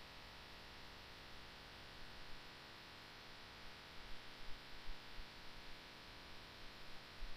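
Faint steady hiss and hum of background noise, with a few soft low bumps in the second half.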